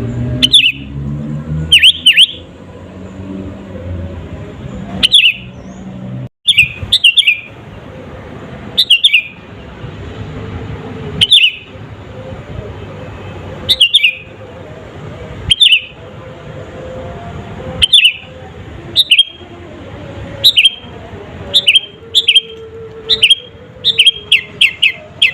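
Sooty-headed bulbul (kutilang) calling: short, sharp chirps every second or two, coming quicker in a rapid run near the end, over a low steady background noise.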